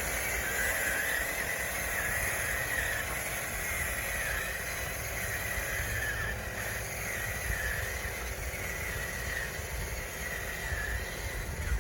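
Electric drive motors and gearing of an RC bulldozer whining steadily, the pitch sagging and recovering every second or so as the load changes, over a low rumble.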